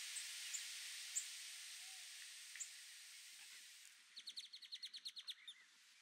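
Faint wild bird calls over a steady hiss of background noise: a few thin, high chirps, then about four seconds in a rapid trill of about a dozen notes lasting a second and a half.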